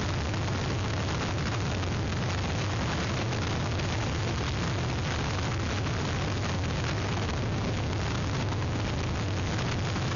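Hurricane wind and rain: a steady, dense rush of noise with a heavy low rumble from the wind buffeting the microphone.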